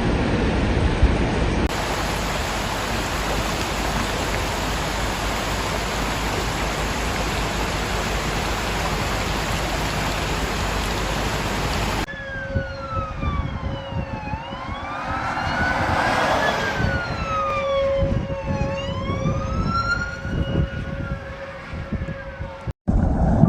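A steady, loud rushing noise for about the first half, then emergency sirens wailing up and down, two or more overlapping, over a steady tone. The siren stops abruptly near the end.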